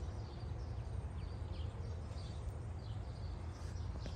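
Birds chirping in the background, short falling chirps repeating every second or so, over a steady low rumble.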